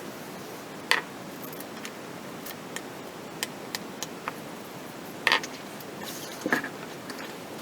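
Light clicks and ticks of small hard parts being handled, with three louder knocks, over a steady hiss.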